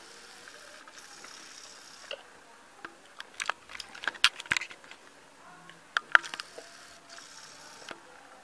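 Scattered light clicks and knocks at irregular intervals over a faint steady hiss, most of them in the middle of the stretch.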